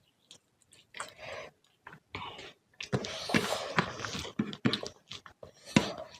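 Close-miked chewing and lip-smacking of a person eating mouthfuls of fish curry and rice, in irregular bursts of wet clicks and smacks that are densest about three to four and a half seconds in.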